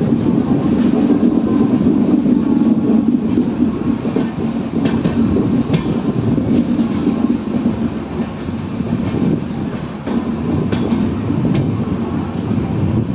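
Train running on the track: a steady rumble of wheels on rail, with occasional sharp clacks as wheels cross rail joints.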